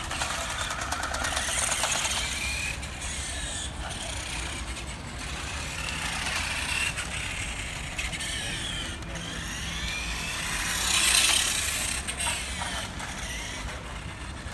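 Radio-controlled 1:5 scale Nikko Ducati motorcycle's electric motor whining, its pitch rising and falling over and over as it speeds up, slows and passes. It is loudest about eleven seconds in, with a rush of noise as it passes close.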